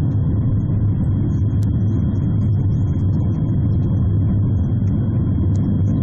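Funicular railway carriage running along its track, a steady low rumble with a faint steady high tone, heard from inside the carriage.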